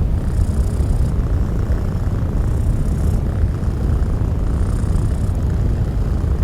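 Steady, bass-heavy pink noise with a cat purring low in it; a brighter hiss swells and fades about every two seconds, like the purr's breathing rhythm.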